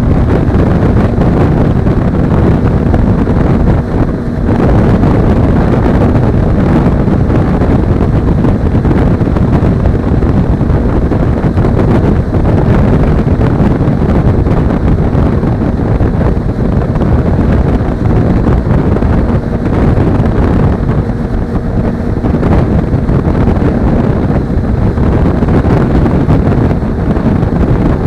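Heavy wind buffeting on an action camera's microphone while riding at speed, with a Suzuki V-Strom 250's parallel-twin engine running steadily underneath.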